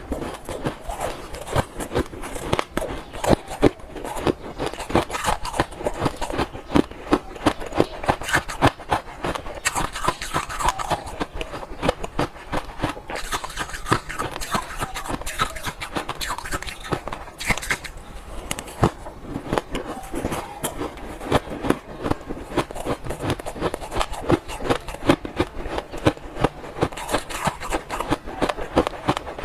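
Crunchy ice being bitten and chewed, a continuous run of dense, irregular sharp crunches.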